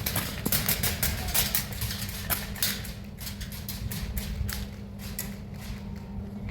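Irregular sharp clicks and taps, several a second, thinning out after about three seconds, over a steady low hum.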